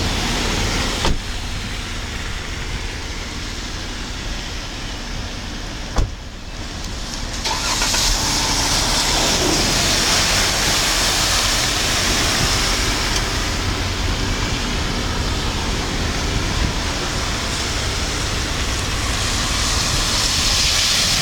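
Car on a rain-wet road: a steady low engine rumble under a hiss of tyres and water. The hiss swells and brightens about eight seconds in and stays loud. Two sharp clicks come in the first six seconds.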